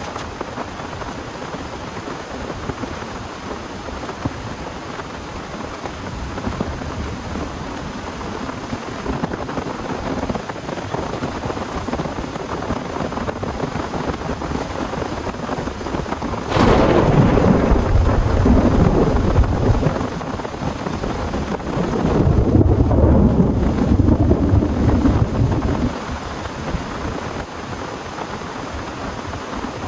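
Torrential rain falling steadily in a thunderstorm. About sixteen seconds in, a sharp clap of thunder breaks into low rumbling for a few seconds. A second long rumble of thunder follows about six seconds later and lasts some four seconds.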